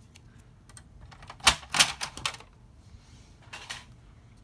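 Sharp clicks and taps of card and a paper-crafting scoring board being handled, bunched together about a second and a half in, followed by a softer rustle of card near the end.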